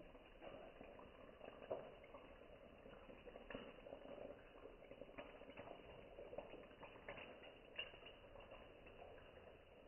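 Faint sizzle of hot cooking oil frying turon (banana spring rolls), with scattered louder crackles and pops.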